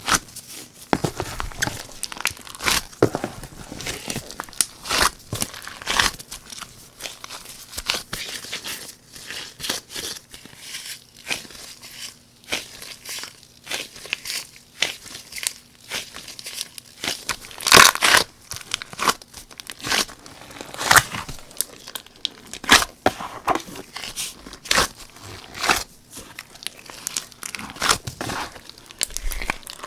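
Slime being kneaded, stretched and squeezed by hand: dense, irregular crackling and popping, with a louder cluster of pops a little past halfway.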